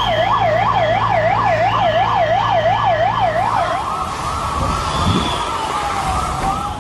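Emergency vehicle siren in a fast up-and-down warble, about three cycles a second. About four seconds in it gives way to a slower wailing siren tone.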